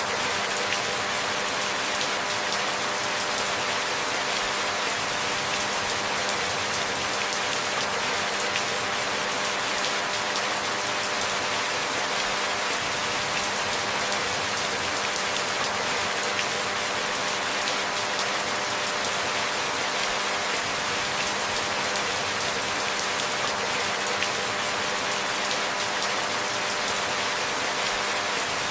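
Steady rainfall: a dense, even patter of raindrops over a constant hiss, with no change in intensity.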